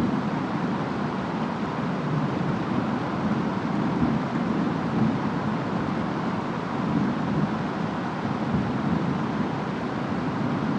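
Steady rain and wind of a storm, a continuous noise with a low, gently swelling rumble underneath.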